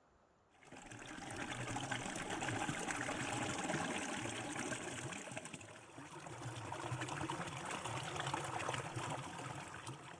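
Water running and splashing, starting abruptly about half a second in and easing off near the end.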